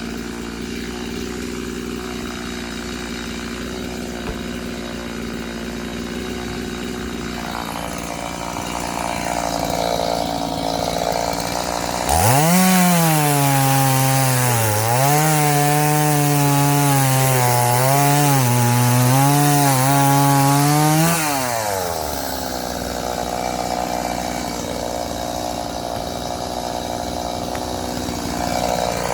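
Chainsaw idling, then revved to full throttle about twelve seconds in and cutting firewood for about nine seconds, its pitch dipping and recovering as the chain bites into the log. It drops back to idle, then revs up again at the very end.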